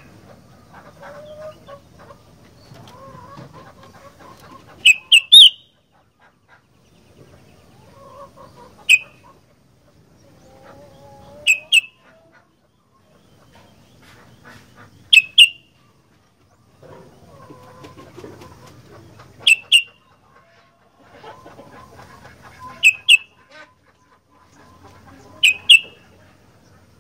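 Sooty-headed bulbul (kutilang) giving short, sharp, high calls, mostly in twos or threes, repeated about every three to four seconds.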